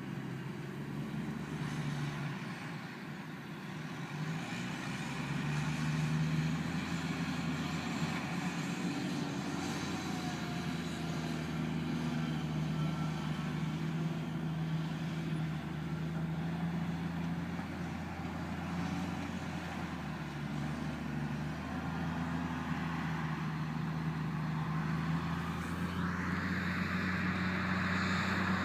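Heavy earthmoving machine's engine running steadily under shifting load, getting louder about six seconds in. A hiss rises near the end.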